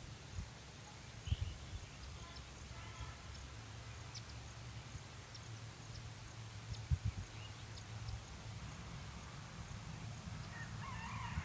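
Faint scattered bird chirps over a low rumble, with a few thumps. Louder, fuller bird calls start near the end.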